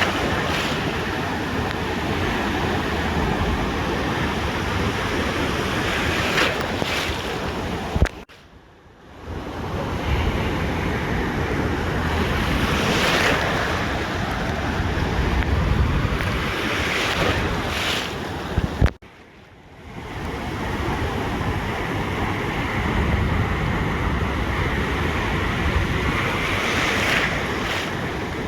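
Ocean surf washing onto a beach, waves swelling and breaking every few seconds, with wind buffeting the microphone. Twice the sound cuts out for about a second just after a sharp knock.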